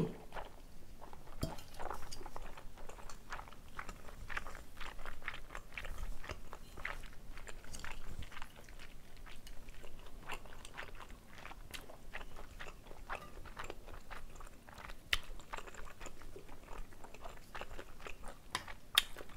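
Close-miked chewing of thick Chinese glass noodles (dangmyeon) in jajang black-bean sauce: wet mouth smacks and many short, sharp clicks, irregular but continuous.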